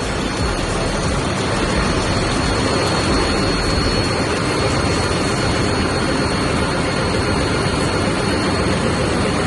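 Yanmar 6EY18ALW marine diesel generator engine running steadily, a loud, even engine-room din with a thin high whine over it.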